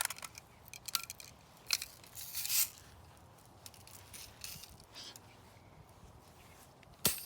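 Spring-air BB rifle being cocked: a few clicks and a short rasp of the cocking stroke in the first couple of seconds. It is then fired once near the end, a single sharp crack.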